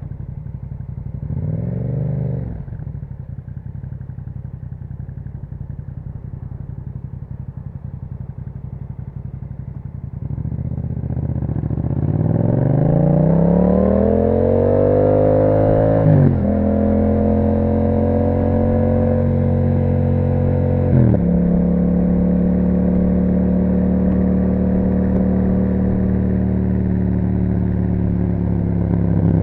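A 2021 Yamaha MT-07's parallel-twin engine through an Akrapovic exhaust. It idles with one short blip of the throttle, then pulls away and accelerates with a steadily rising pitch. There are two upshifts, about halfway through and again about five seconds later, and then it cruises steadily.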